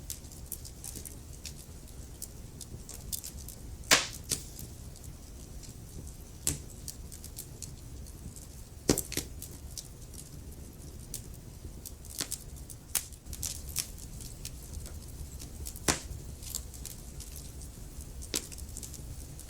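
Wood fire crackling in a fireplace: a steady low rumble of burning with frequent small ticks and about half a dozen sharper, louder pops scattered through.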